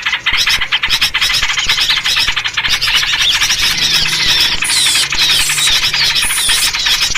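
Dense, unbroken chattering and scolding of small songbirds, a bird-luring call track in the sooty-headed bulbul (trucuk) version. Rapid clicking chatter throughout, joined from about three and a half seconds in by a series of quick falling whistled notes.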